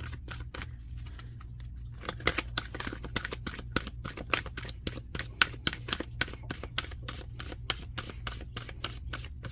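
A deck of reading cards being shuffled by hand: a rapid run of papery clicks and slaps, thicker from about two seconds in. A steady low hum runs underneath.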